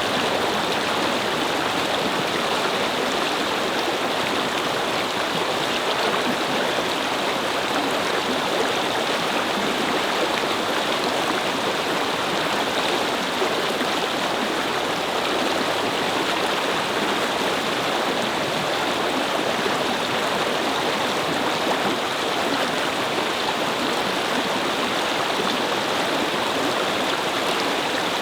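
Steady rushing and babbling of a brook's flowing water, even and unchanging.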